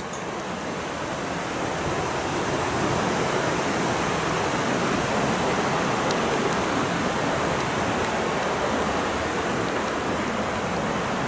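Waterfall pouring steadily, an even rushing of falling water that grows a little louder over the first two seconds and then holds.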